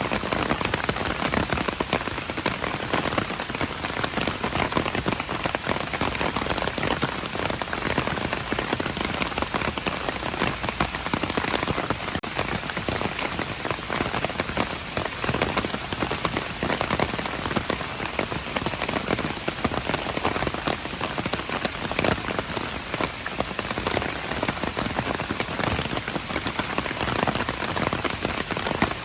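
Steady rain falling on hard surfaces, a dense patter of many close drop ticks over an even hiss.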